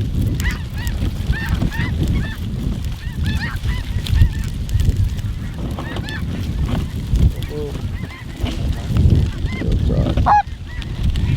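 A large flock of snow geese calling together: a dense, continuous chorus of short, high honks over a low rumble.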